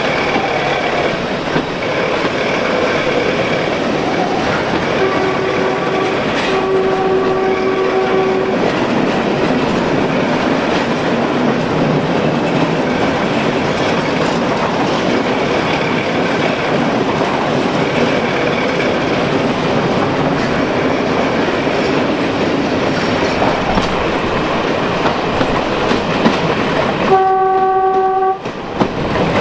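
Passenger train running along the line, heard from an open carriage window: a steady rumble of wheels on rail with wind noise. The train's horn sounds a short blast about five seconds in, then a longer one just after, and once more near the end.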